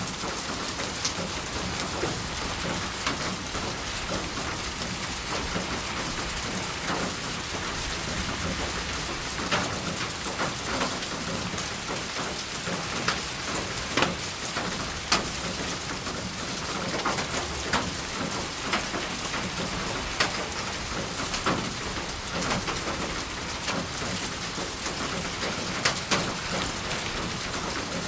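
Steady rain falling, a continuous hiss with scattered louder individual drops pattering on a surface.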